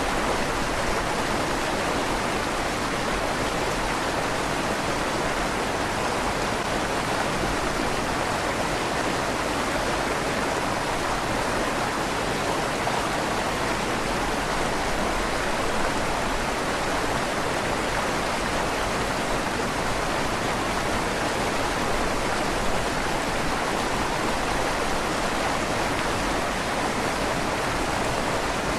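Steady rush of a flowing river passing under a stone bridge, its sound echoing slightly inside the bridge's tunnel.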